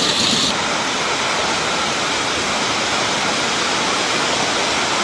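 Hail pelting down in a dense, steady hiss; about half a second in the sound changes as a higher hiss drops away, then runs on evenly.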